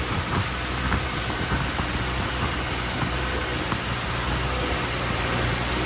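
Boat's engine running steadily under way, a low hum beneath a constant rush of water and wind.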